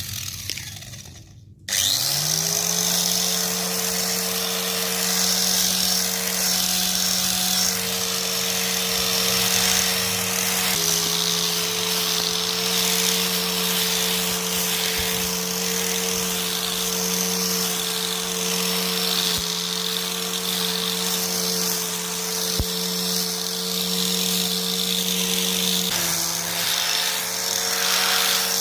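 Motor of a homemade grass cutter comes up to speed about two seconds in and runs at a steady pitch, its hum stepping slightly in pitch twice.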